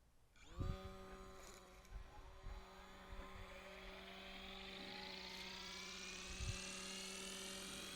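Electric motor of a 470-size Roban scale RC helicopter starting up and slowly spooling up its twin-bladed rotor: a whine that rises steadily in pitch over a steady lower hum, starting about half a second in.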